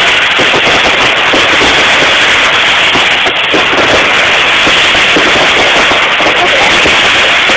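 Fireworks display: loud, continuous crackling of a dense barrage, with no let-up.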